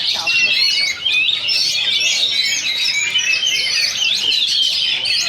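Oriental magpie-robins singing at the same time, a dense, unbroken tangle of quick whistles and chirps.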